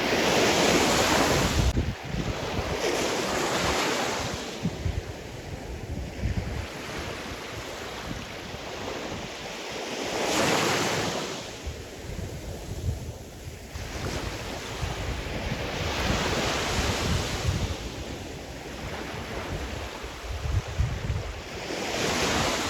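Sea surf: waves breaking and washing up the shore, swelling and falling away every few seconds with about five surges, under a gusty rumble of wind on the microphone.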